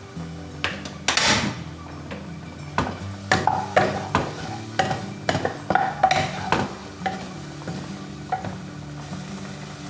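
A utensil stirring food in a frying pan, knocking and scraping against the metal in a run of irregular clinks, with a brief burst of sizzling about a second in. The knocking dies away after about seven seconds.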